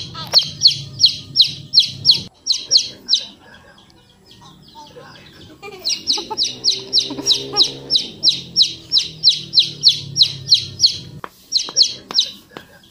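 A bird calling in fast, even series of high chirps, about four a second, in two long runs with a pause of about two seconds between them and a short burst near the end.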